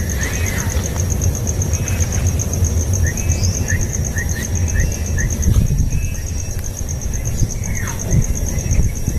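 Small birds chirping in quick runs of short, repeated notes, over a steady high, fast-pulsing insect trill and a low rumble.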